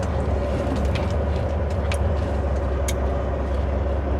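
Semi truck's diesel engine running with a steady low drone, with a few faint ticks about a second apart.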